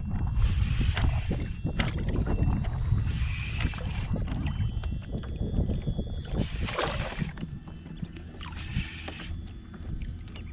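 Wind rumbling on the microphone, with four bursts of hissing noise each lasting about a second.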